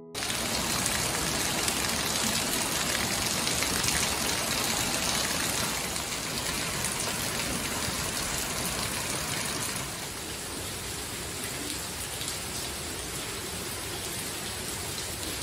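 Heavy rain pouring steadily, a dense even hiss of water falling on leaves and a wet tiled patio, slightly quieter about ten seconds in.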